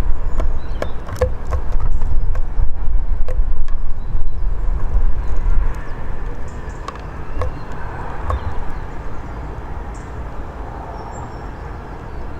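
A steady low rumble, loud for the first six seconds and then easing off, with sharp clicks and taps of small birds at a bird table scattered through it. A few short, thin, high calls of Eurasian siskins come in the second half.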